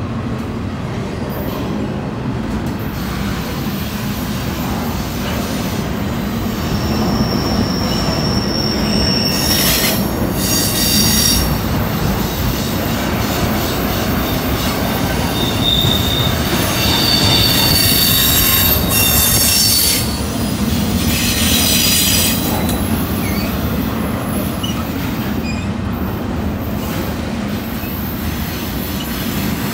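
Double-stack intermodal freight train rolling steadily past at close range, its wheels rumbling and clattering on the rails. In the middle stretch the wheels squeal in thin high tones, several times over about a dozen seconds.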